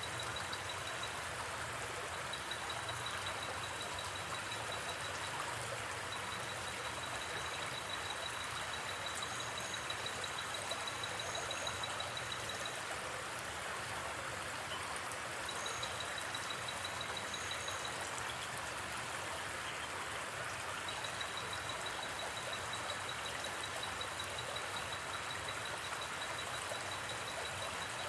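Steady rushing of a flowing river, with a fast, high-pitched insect trill that starts and stops in stretches of a few seconds. A few faint paired chirps sound higher still about a third and halfway through.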